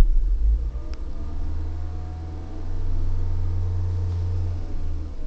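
A 2008 Toyota Prius's 1.5-litre four-cylinder petrol engine cuts in on its own with a sudden thump and then runs with a low hum. The hum rises in pitch about two and a half seconds in and eases back near the end.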